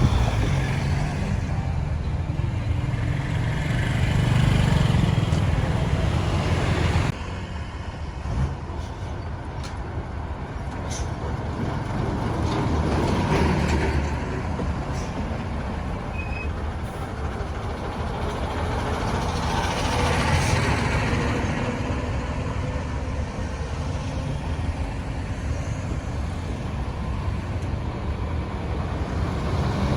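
Busy road traffic: the engines and tyres of trucks and other vehicles on the road, swelling and fading as they pass, with an abrupt drop in level about seven seconds in.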